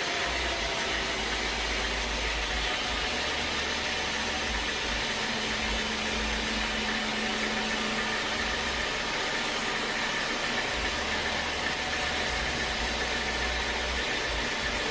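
Sawmill machinery running steadily: a constant, even mechanical noise with a faint hum and no breaks.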